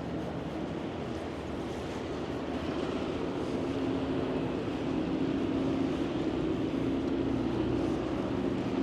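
Steady engine hum that grows louder over several seconds, over a noisy wind-and-water haze, then cuts off suddenly near the end.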